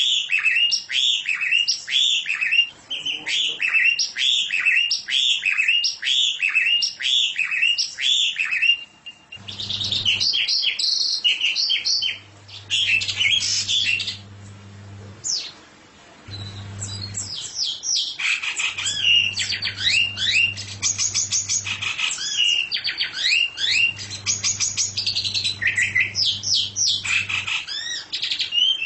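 Songbird singing: for about nine seconds one swooping call repeats evenly, roughly one and a half a second, then after a brief pause the bird breaks into a fast, varied song of trills and chirps. A low hum comes and goes under the second half.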